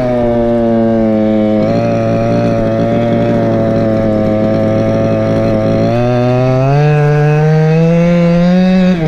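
Go-Ped scooter's Chongyang CY26RC two-stroke engine running under throttle. It holds a steady pitch, then climbs in pitch from about six seconds in as the scooter speeds up.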